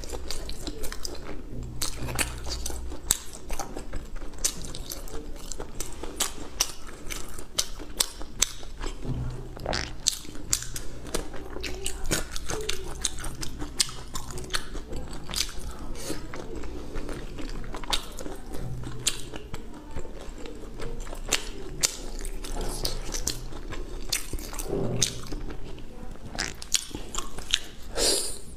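Close-miked wet chewing and biting of soft, gelatinous braised beef tendon: a dense, irregular run of small sticky clicks and smacks.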